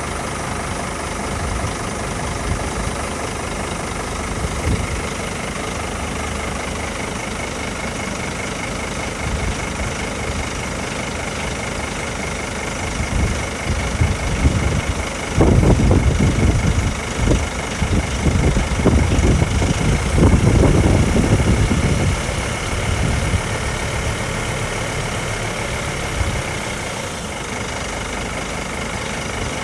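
Scania refuse truck's diesel engine idling steadily, with a louder, rougher spell of several seconds in the middle before it settles back to idle.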